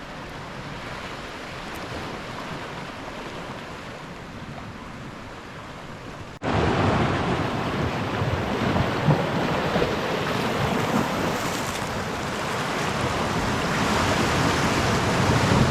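Sea waves washing on the shore, a steady rushing hiss. About six seconds in it drops out for an instant and comes back clearly louder.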